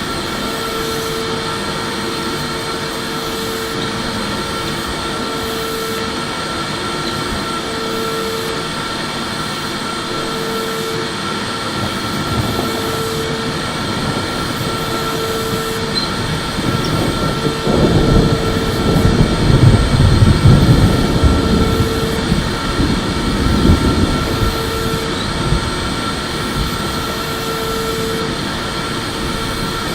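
Electric vacuum cleaner running steadily, its motor giving a constant high whine over the rush of air. From about 17 to 24 seconds in, a louder, rougher low rushing swells up and then settles back.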